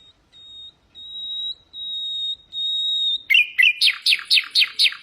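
Common nightingale singing: four long whistles held on one high note, each louder than the last, then a fast series of about ten quick notes, each sweeping downward.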